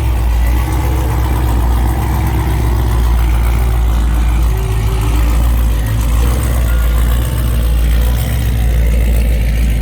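Car engines idling with a loud, steady low rumble.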